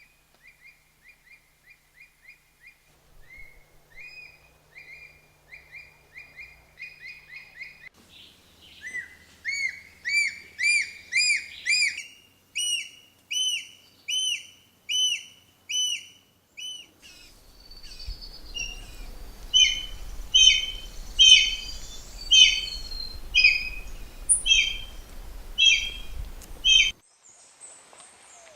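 Birds of several species calling in turn: first a run of quick, soft repeated chirps, then louder evenly spaced whistled notes about two a second, and later sharper repeated notes over a low background rumble.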